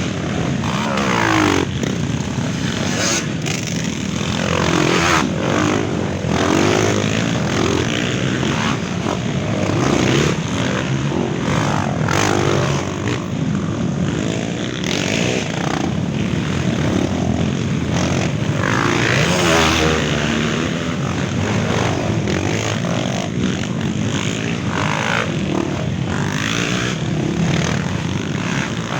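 Several off-road trail motorcycles revving and passing one after another, their engine notes rising and falling in overlapping sweeps.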